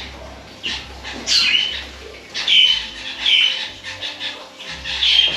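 A captive bird squawking: a run of about five loud, harsh calls, each under half a second, spaced roughly a second apart.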